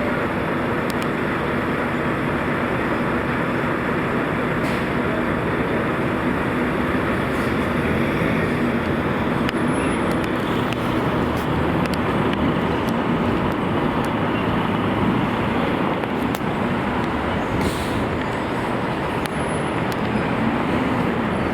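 Steady street traffic noise, with vehicle engines running and a low steady hum.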